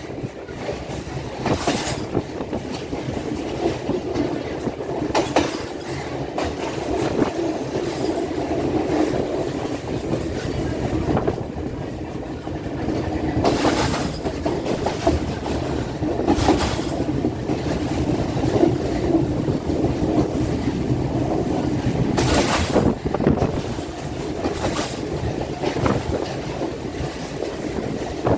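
Passenger train running along the track, heard from inside the carriage by an open door: a steady rumble and rattle of wheels on the rails, with a few short, louder bursts now and then.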